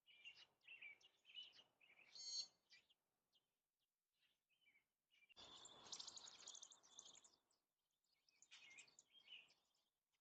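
Faint bird chirps and short calls, a cluster of them in the first three seconds and more near the end. About halfway through there is a longer burst of rushing noise with chirps on top of it.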